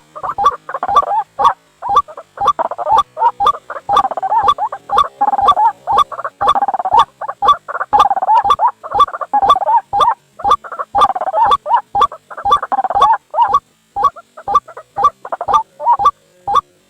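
White-breasted waterhen calls from a lure-call recording: a fast, continuous run of harsh repeated notes, each starting with a sharp click, about three a second. The run thins out briefly about three quarters of the way through, then carries on.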